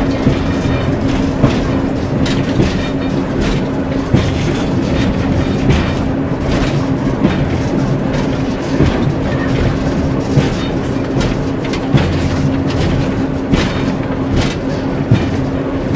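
Class 141 Pacer railbus running on the line, heard from inside the cab: a steady diesel drone with a constant hum, and irregular sharp clicks from the wheels passing over rail joints.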